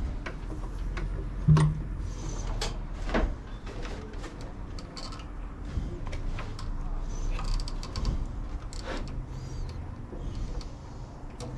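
Scattered clicks and knocks of tools and mower parts being handled during work on the mower's self-propel drive, the loudest knock about a second and a half in, over a steady low hum.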